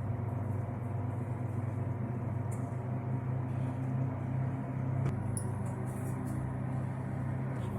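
Microwave oven running: a steady electrical hum, with a faint click about five seconds in.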